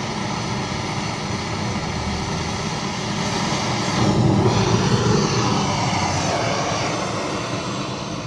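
A machine drone with a hiss running steadily, swelling louder about four seconds in and easing off again before it cuts off abruptly.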